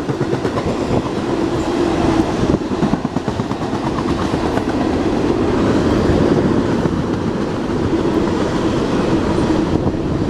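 Freight train rolling past close by: a steady, loud rumble of steel wheels on the rails with a clickety-clack over the rail joints.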